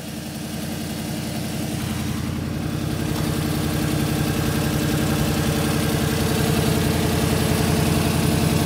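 Ford 5.8-litre V8 with twin Holset HE341 turbochargers idling steadily with an even pulse, on the first run of the twin-turbo setup; no exhaust-leak hiss is heard. It grows gradually louder.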